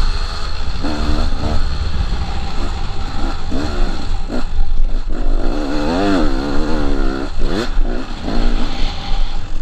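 KTM 300 two-stroke dirt bike engine being ridden hard, revving up and down again and again as the throttle is opened and shut, with a quick rev sweep late on.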